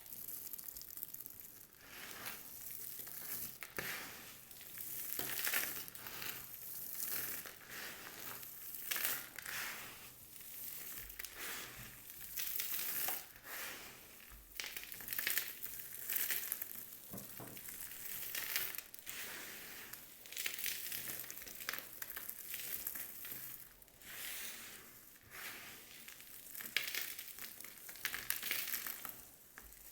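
Bar soap being cut with a knife: a run of crunching cuts, one every second or two.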